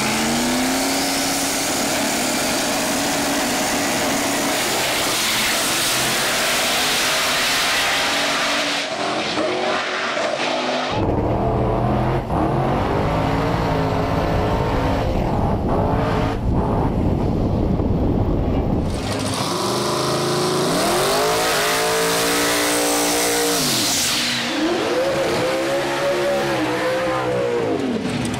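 Drag racing engines at full throttle, loud and continuous across several cuts. Near the end the engine pitch rises and falls twice.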